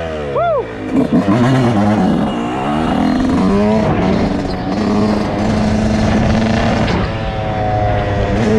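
Dirt bike engine revving up and down, then settling into a steady run from about two seconds in. A second, higher engine note joins near the end.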